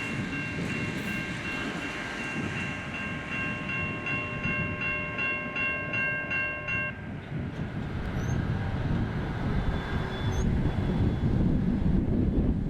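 Level crossing electronic bells (Safetran Type 3 e-bells) ringing in fast, even strokes, then cutting off suddenly about seven seconds in as the crossing activation ends. A low rushing noise carries on and grows louder near the end, with a few short bird chirps.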